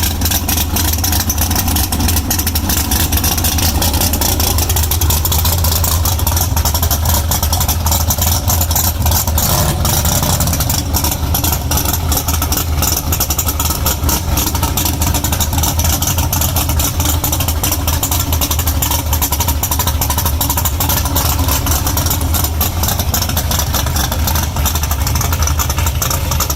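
Car engine idling loudly and steadily.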